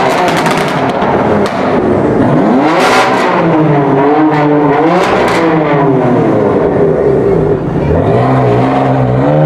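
High-performance car engines revving and accelerating hard, one car after another. The engine note sweeps up in pitch several times, with steps in pitch at gear changes.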